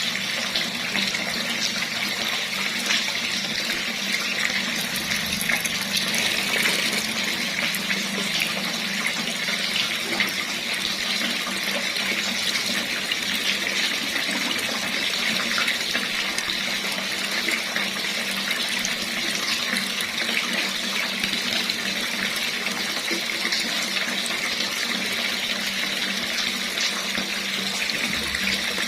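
Water running steadily from a tap in an even, unbroken stream.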